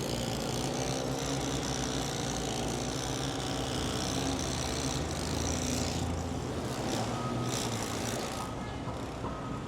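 Busy city street traffic: vehicle engines running with a steady low rumble, and a high hiss that wavers through the first six seconds before easing off.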